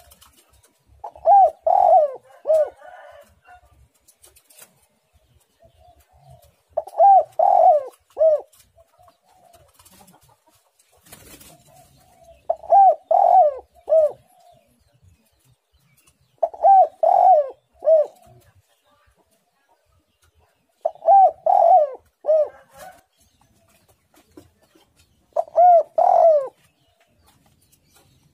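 Spotted dove (tekukur) cooing: six short phrases of several quick, arched coos each, repeated every four to five seconds.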